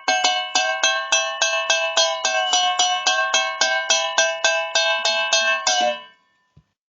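Metal cans struck in a fast, even run of about four strikes a second, each ringing with a bell-like metallic tone whose pitch sways slightly. The playing stops about six seconds in.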